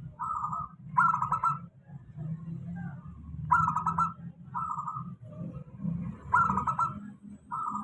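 Zebra dove (perkutut) singing its cooing song, a short phrase followed by a longer rattling phrase, repeated three times about every three seconds over a low steady hum.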